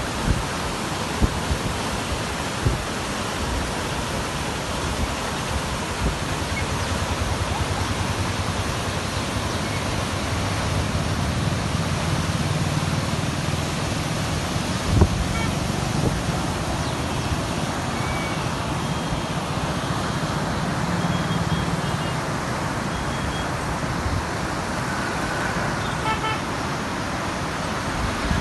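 Road traffic: vehicle engines running past over a steady rushing noise, with a few short horn toots in the second half and one sharp knock about halfway through.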